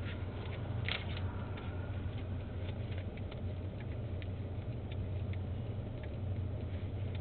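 Steady low drone of a running vehicle, with scattered light clicks and ticks over it.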